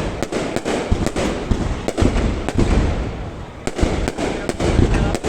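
Fireworks display: shells bursting in a rapid, overlapping series of sharp bangs and deep booms, several a second, with no pause.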